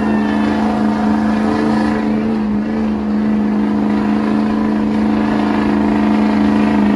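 Diesel pickup truck engine held at high, steady revs for about seven seconds, then let off near the end.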